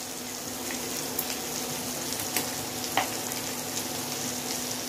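Boiled soya chunks frying in hot oil in a kadhai: a steady sizzle with a few sharp pops, the loudest about three seconds in.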